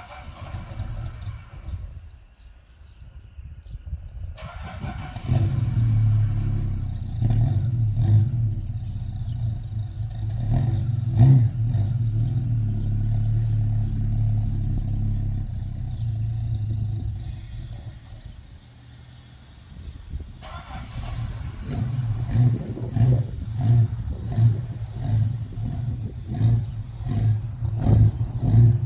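Chrysler Hemi 265 straight-six of a Valiant CL Charger running on a cold start. The engine note comes up sharply about four seconds in and runs fairly evenly, then sags and almost dies around eighteen seconds. It picks up again with an uneven, pulsing beat, roughly once a second.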